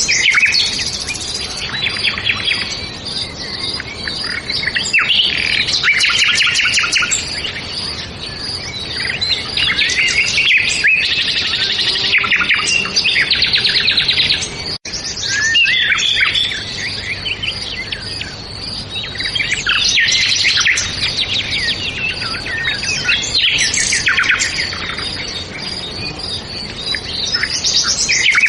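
A chorus of songbirds chirping and trilling over one another, with a brief cut-out about fifteen seconds in.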